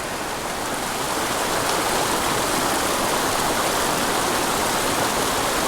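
Steep mountain creek's water rushing steadily.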